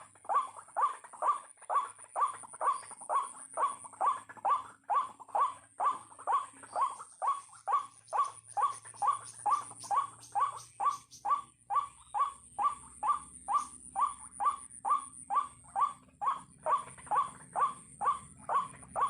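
White-breasted waterhen (ruak-ruak) calling in a long, monotonous series of short, harsh notes, about two a second, over a steady high-pitched buzz.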